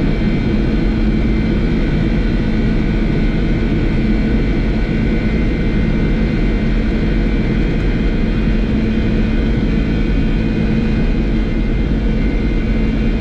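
Boeing 747-400's four jet engines at takeoff thrust during the takeoff roll, heard inside the flight deck: a loud, steady roar with a constant hum and a few held tones.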